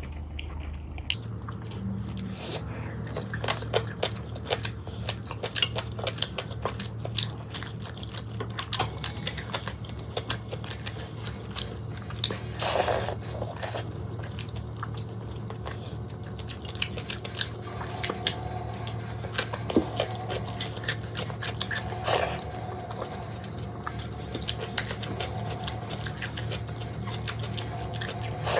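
Close-up eating sounds: a person chewing and biting through a meal, with many small irregular mouth clicks and smacks and a brief louder slurp or rustle about halfway through.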